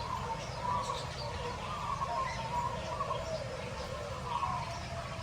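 Many aviary birds calling at once: a steady chorus of overlapping warbling calls with short high chirps and tweets scattered through it.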